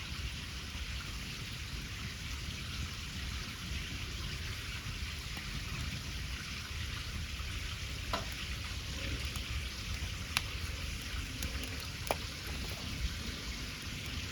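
Cooking over an open wood fire: a steady sizzling hiss with three sharp crackling pops, about eight, ten and twelve seconds in.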